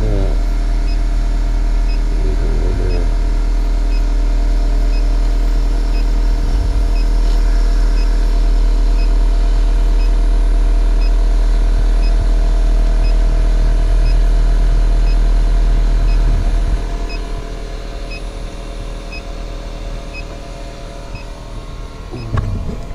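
Geothermal heat pump running with a loud, steady low hum. About three-quarters of the way through, the deepest part of the hum cuts out and a quieter running sound carries on.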